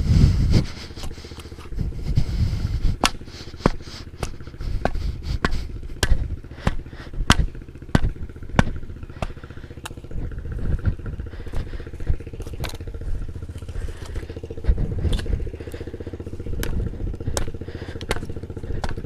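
Pit bike engine running at a fairly steady speed, with frequent sharp clicks and knocks and a few low rumbling swells over it.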